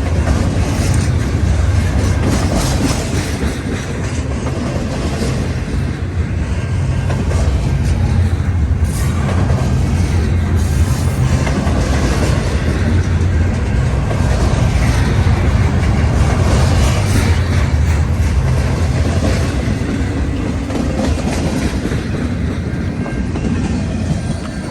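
Freight cars of a long intermodal train rolling past close by: steady rumble with the clatter of wheels over the rails, dropping off near the end as the last cars go by.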